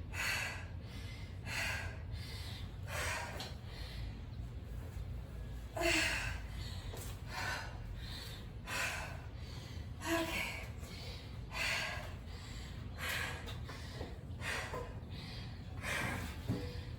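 A woman breathing hard from exertion during a high-intensity workout: one heavy breath about every second and a half, over a steady low rumble.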